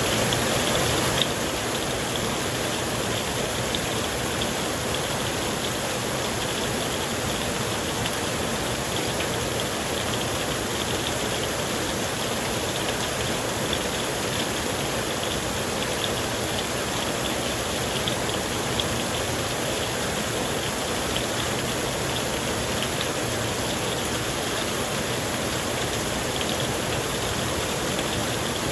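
Steady heavy rain on a tent, with scattered individual drops ticking on the fabric.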